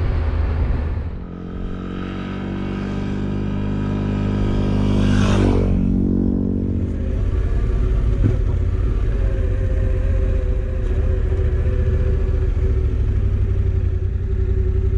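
Motorcycle engine accelerating, its pitch and loudness climbing for several seconds, then easing off and running steadily at cruising speed.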